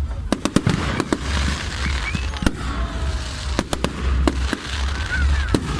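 Fireworks going off: a run of sharp bangs and pops at irregular intervals over a steady low rumble.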